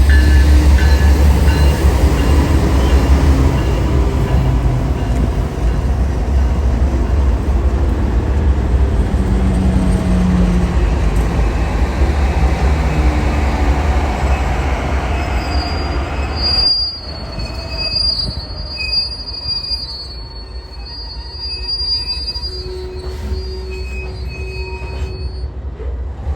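Freight train with diesel locomotives passing close by, a heavy low rumble with engine tones. About two-thirds of the way through it drops quieter, and a high steady screech of wheel flanges squealing on the rail runs over the rolling cars.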